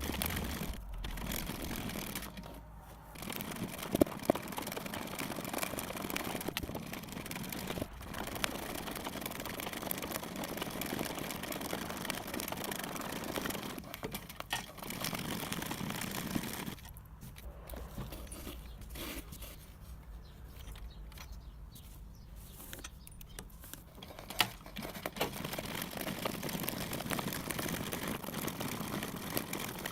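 Sped-up hand embroidery: needle and thread drawn through taut fabric in an embroidery hoop, giving a continuous scratchy rustle with scattered sharp clicks. It quietens for several seconds past the middle.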